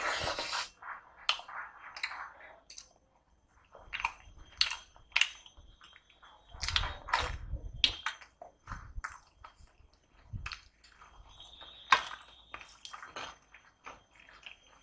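Close-miked chewing and wet mouth sounds of a man eating puri dipped in curry, in irregular bursts. A single sharp click about twelve seconds in is the loudest sound.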